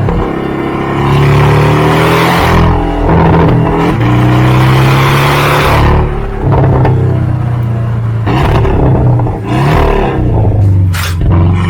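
Porsche 718 Cayman 2.0-litre turbocharged flat-four running through an aftermarket Tneer exhaust with a 200-cell straight-flow downpipe, pulling hard. The pitch climbs for a few seconds, then drops at each break, three or four times, like upshifts under acceleration.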